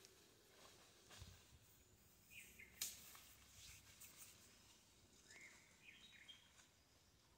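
Near silence in the open air, with a few faint bird chirps and one sharp click a little under three seconds in.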